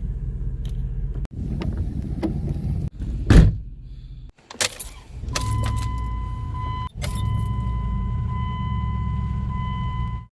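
Engine and road rumble inside a moving car, chopped by several quick cuts, with a loud knock about three and a half seconds in. A steady high tone runs over the rumble through the second half.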